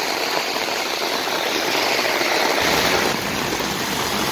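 Heavy rain pouring, a steady hiss of water on the road; about two and a half seconds in, the low rumble of a car engine comes in as a car drives through the flooded street, its tyres throwing up spray.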